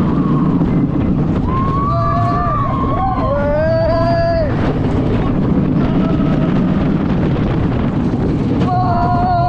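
Wind buffeting the microphone over the rumble of an RMC wooden roller coaster train running at speed, with riders screaming about two seconds in and again near the end.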